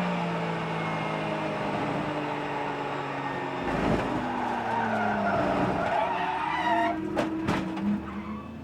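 Race car engines at speed, their pitch falling as the cars brake, with tyres skidding. A dull thump comes about four seconds in, and two sharp knocks near the end.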